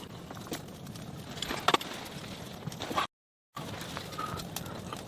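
Irregular knocks and clicks over a low rustling background, broken by half a second of dead silence about three seconds in.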